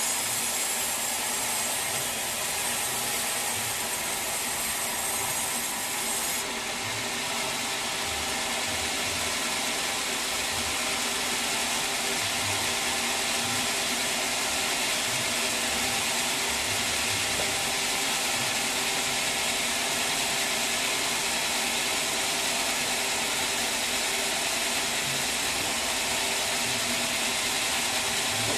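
Sawmill saw running steadily through wood, a continuous mechanical whine and rush with a slight change in its sound about six seconds in.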